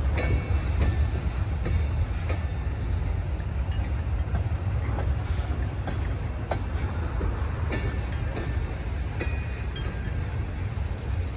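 Freight train of tank cars rolling past: a steady low rumble with scattered clicks of wheels over the rails and a few brief high squeals.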